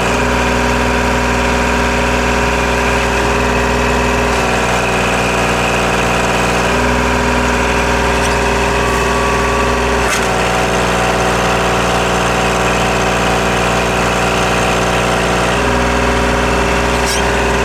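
Compact tractor's three-cylinder diesel engine running steadily under loader work. Its note shifts a few times as the hydraulics load it, with a few sharp clanks.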